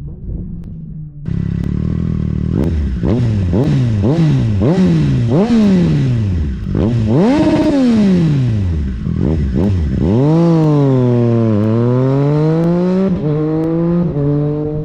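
2020 Triumph Street Triple RS inline-three engine with an unbaffled LeoVince LV One EVO slip-on exhaust, idling and then revved in a string of quick throttle blips, with a higher rev about seven seconds in. A longer, held rev follows near the end before the engine drops back to a steady idle.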